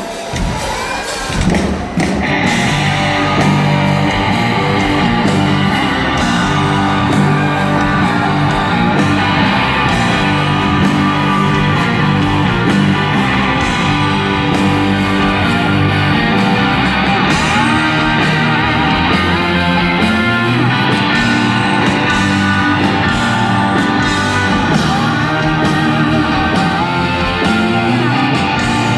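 Live rock band playing loudly on electric guitars, bass and drums. The full band comes in about two seconds in and then plays on steadily.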